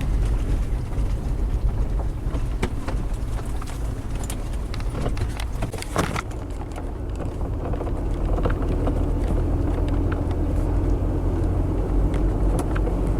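Car driving along a rural road, heard from inside the cabin: steady low engine and road rumble with a few brief knocks and rattles, getting a little louder in the second half.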